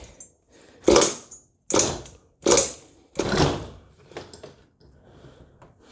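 Kyosho USA-1's 0.25 nitro glow engine being cranked by its starter in four rasping strokes under a second apart, with weaker scraping after them; the engine does not catch.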